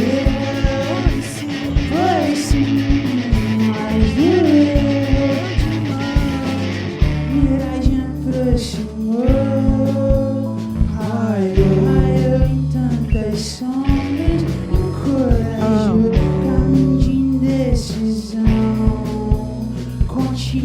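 Psychedelic rock band playing live, with electric guitar, bass, drums and keyboards, and sliding, sung melodic lines over a steady beat. The bright cymbal wash drops out about seven seconds in.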